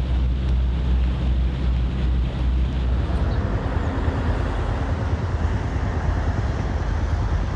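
Steady low rumble with wind on the microphone; about three seconds in the deep rumble eases and a more even hiss takes over.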